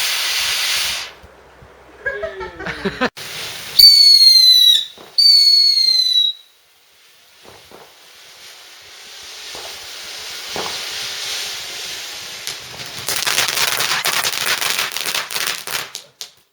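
Garden fireworks: a loud hissing burn that cuts off about a second in, then two loud high whistles of about a second each, each falling slightly in pitch. After them a hiss slowly builds and breaks into rapid crackling near the end.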